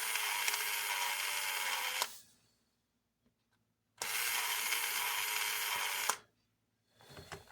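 A small electric motor running in two steady stretches of about two seconds each, stopping dead in between.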